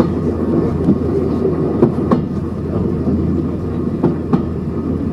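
A train running along the track: a steady low rumble with irregular clicks and knocks from the wheels and rails.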